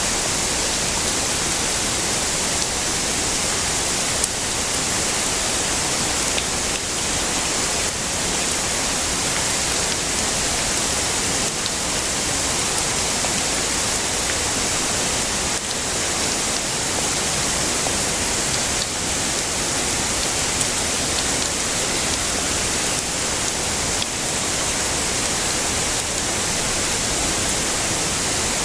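Heavy rain falling steadily: an even, unbroken hiss, strongest in the high range.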